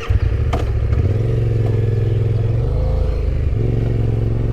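Yamaha Ténéré 700 parallel-twin motorcycle engine running just after start-up, settling into a steady idle about a second in, with a brief change in engine note around three seconds in. A single sharp click about half a second in.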